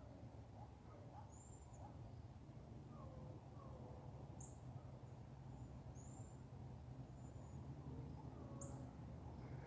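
Faint outdoor ambience: a bird gives thin, very high chirps every second or two, with fainter lower calls in the distance over a steady low rumble.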